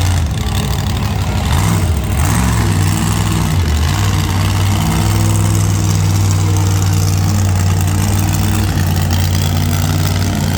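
Monster truck engine idling with a deep, steady note, with a few short throttle blips in the first four seconds.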